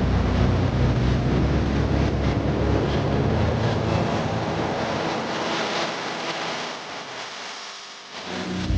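Roll-over automatic car wash machine running: a steady rushing noise over a low motor hum, which fades away over the last few seconds.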